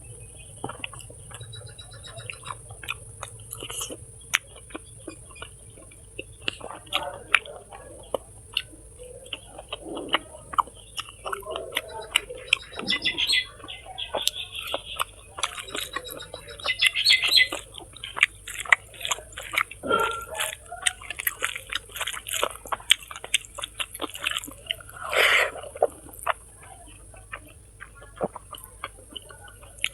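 Close-miked eating sounds: chewing, lip-smacking and many short clicks of someone eating rice, meat and fried fish, over a steady faint hiss. A few bursts of higher-pitched calls come in the middle.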